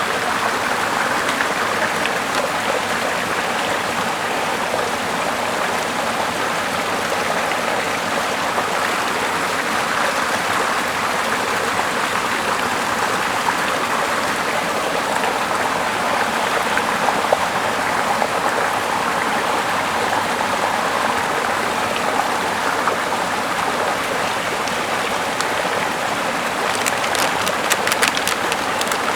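A small mossy river flowing steadily over rocks, a continuous rushing of water. Near the end, a run of sharp crackles or ticks starts up over it.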